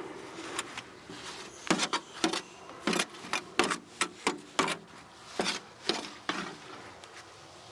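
Soil being scooped and dropped back into a plastic potato-growing bucket by hand: a run of sharp scrapes and knocks, about two a second, that stops about a second before the end.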